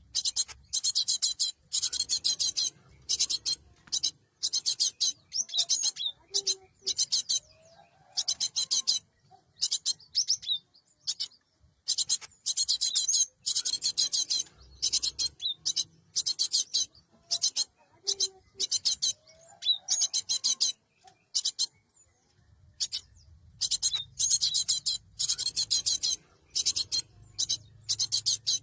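Cinereous tit (gelatik batu) calling over and over in quick, harsh, rasping high-pitched bursts of chatter separated by short pauses.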